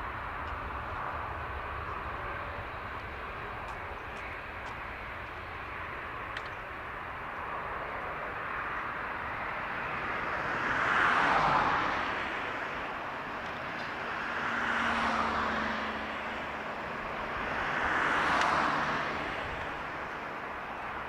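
Boeing 787-8 jet engines heard at a distance, a steady roar as the airliner climbs away after takeoff. Three louder swells of noise rise and fade through the second half.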